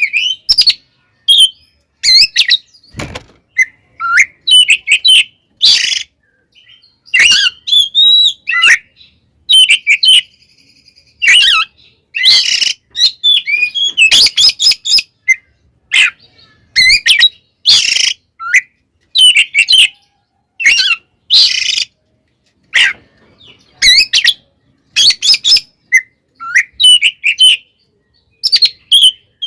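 Oriental magpie-robin (kacer) singing loudly in short, rapid bursts of varied sweeping whistles and harsh chattering notes, with brief pauses between phrases: the agitated, fighting-mode song used to provoke other kacer.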